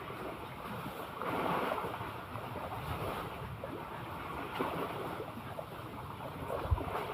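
Sea waves washing and lapping, with wind buffeting the microphone; the rush swells and eases, and there is one short low thump near the end.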